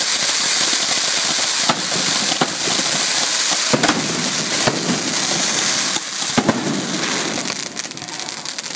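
Fireworks going off: a dense crackling hiss with about half a dozen sharp bangs scattered through it, easing a little after about six seconds.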